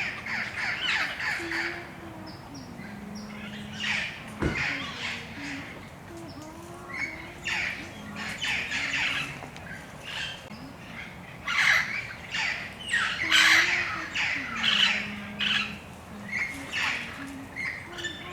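Amazon parrots squawking: harsh, grating calls in repeated bursts, loudest about twelve to fourteen seconds in. There is a single sharp click about four and a half seconds in.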